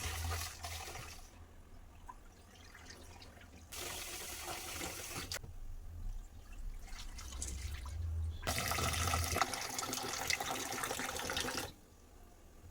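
Water running from a tap into a sink in three spells, turned on and off: briefly at the start, again about four seconds in, and for about three seconds from eight and a half seconds in.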